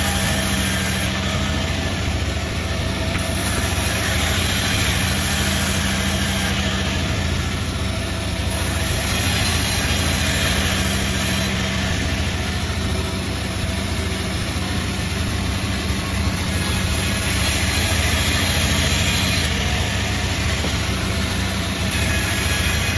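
Multi-blade gang-rip sawmill running steadily: a constant low motor hum under a dense mechanical noise that swells and eases a little over time.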